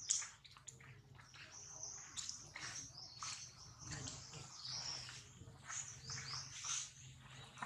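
Small birds chirping repeatedly in high, short calls, with a few soft scratchy sounds between them.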